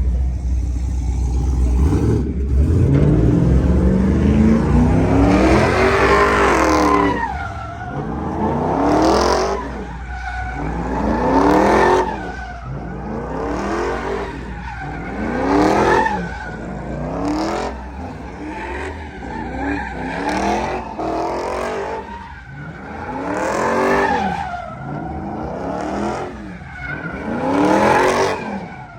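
A truck's engine revving hard: one long climb in pitch, then repeated rises and falls about every two seconds, with tires squealing as they spin on the pavement.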